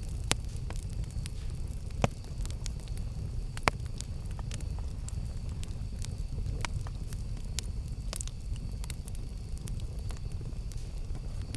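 Wood campfire crackling: a steady low rumble of burning under frequent sharp crackles and pops, three of them louder in the first four seconds.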